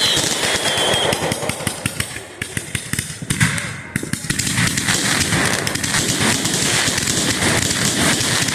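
Fireworks crackling in rapid strings of small pops, with one louder bang about three seconds in, then dense crackling that keeps going.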